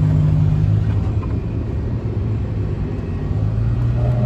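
Lamborghini Gallardo's V10 engine running at low speed, a steady low drone that eases slightly partway through and picks up again near the end.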